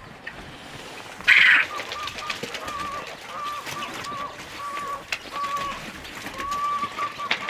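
Farm poultry calling: a run of short, repeated, pitched calls, about one or two a second, following a loud brief rustle-like burst about a second in.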